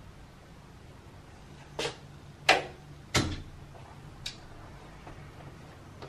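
Four separate knocks and clunks of household things being handled, such as cupboard doors or objects set down; the loudest comes about two and a half seconds in.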